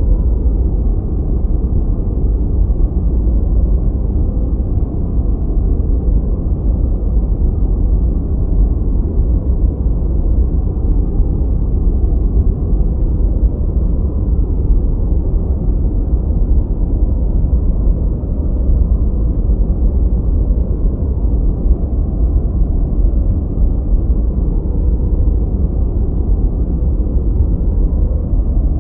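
Steady, deep noise-masking sound, a low rumbling hiss with its weight at the bottom and almost nothing above the upper midrange, like brown noise rather than bright white noise. It runs evenly, with no rhythm, tone or change.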